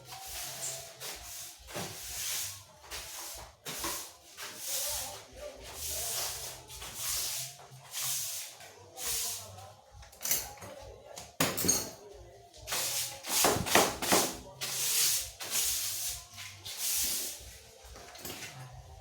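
Rhythmic scraping strokes, about one a second, with a few sharp knocks near the middle.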